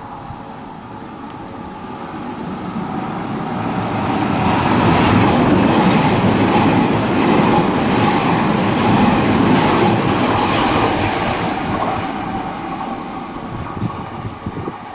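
Odakyu 70000-series GSE Romancecar electric train passing through a station without stopping. The rumble of wheels on rail builds over a few seconds, stays loud for several seconds, then fades away, with a few sharp clicks near the end.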